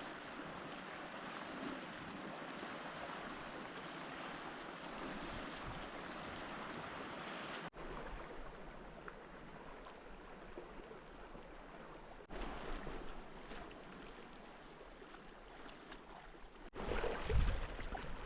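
Steady rushing and lapping of lake water around a moving canoe, broken by a few abrupt cuts.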